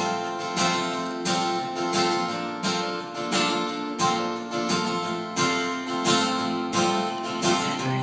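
Acoustic guitar strumming chords in a steady rhythm, an instrumental passage of a live song with no singing.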